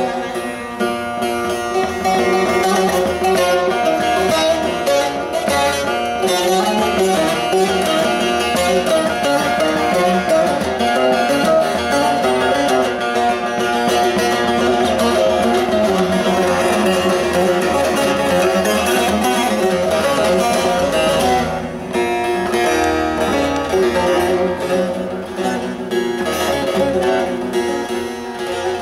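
Turkish bağlama (long-necked saz) with a carved mulberry bowl, played as a continuous stream of fast plucked notes over ringing drone strings, with a short dip in the playing about three-quarters of the way through.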